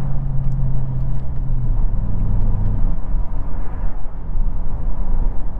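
2020 Dodge Charger Scat Pack's 6.4-litre V8 running steadily on the road, a low exhaust hum whose note drops to a lower pitch about a second and a half in.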